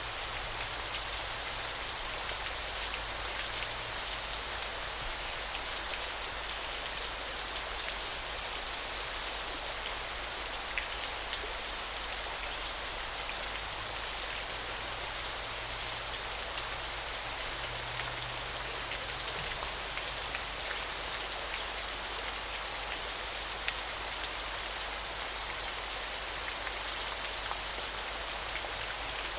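Steady hiss of rushing river water. Over it, a high thin trill repeats about nine times, each a second or so long, and stops about two-thirds of the way through.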